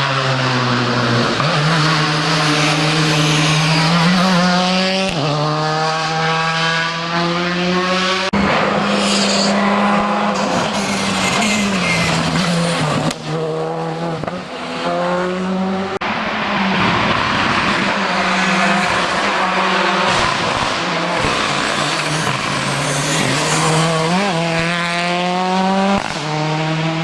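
Rally car engine under hard acceleration, its pitch climbing again and again and falling back at each gear change.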